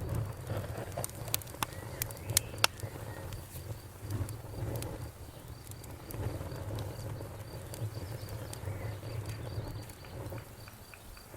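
Campfire crackling, with several sharp pops in the first three seconds over the low rumble of the burning wood. Crickets chirp in an even, pulsing high trill throughout.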